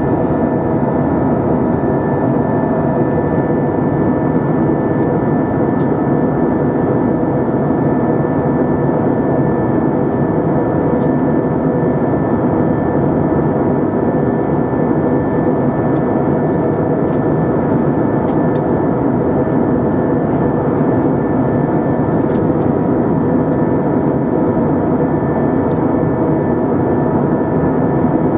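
Steady cabin noise inside an Airbus A320 in flight: engine and airflow noise with several steady tones on top, and a few faint clicks.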